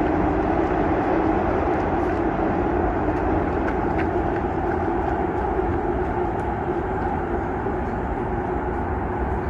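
Seoul Metro Line 2 subway train running across a railway bridge: a steady rumble with a humming undertone, easing off slowly.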